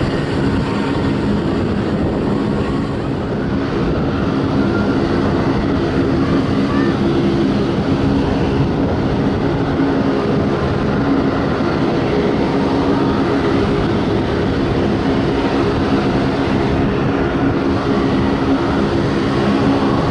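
Turboprop aircraft engines running steadily: a propeller drone with several steady tones over a broad rush, a little louder from about four seconds in.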